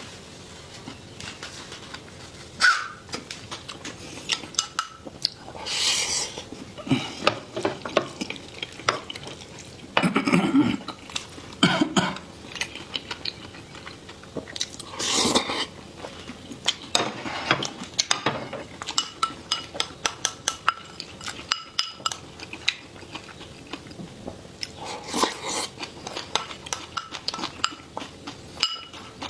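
Eating at a table: cutlery clicking and clinking against bowls and plates many times, with louder bouts of chewing or slurping between.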